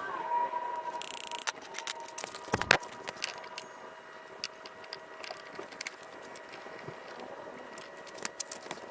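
Irregular metallic clicks, clinks and knocks of hand tools working on a motorcycle's brakes, whose pads are worn through. There is a short hiss about a second in and a sharper knock a little later, with a faint steady whine underneath.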